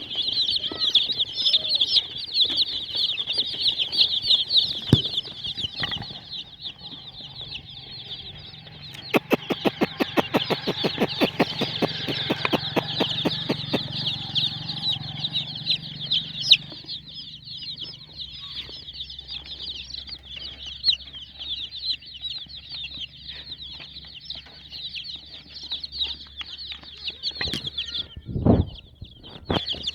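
Many domestic chicks peeping together, a dense and continuous chatter of high, rapid chirps. About a third of the way in, a fast run of evenly spaced clicks lasts about five seconds, and a single low thump comes near the end.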